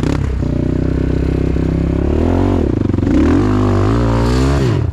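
Dirt-bike engine running steadily, then revved up and down several times in the second half before it cuts off suddenly. The bike is stuck and its rear wheel is digging in rather than pulling it free.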